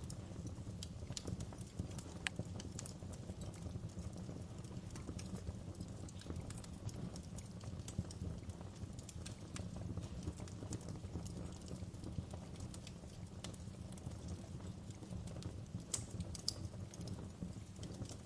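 Wood fire burning in a fireplace: a steady low rumble of flames with irregular sharp crackles and pops, a few louder pops about two seconds in and near the end.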